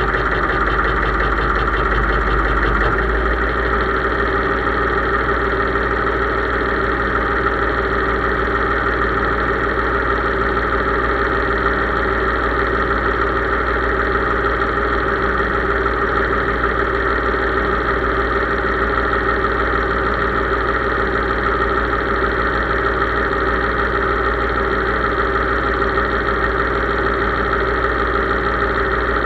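Case IH 3220 tractor's diesel engine running steadily at a constant speed.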